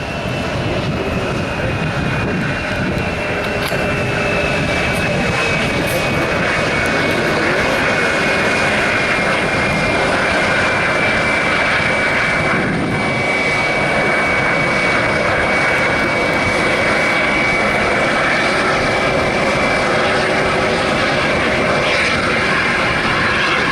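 Jet airliner engines running loud and steady, with a high whine that slides down in pitch over the first few seconds and then holds.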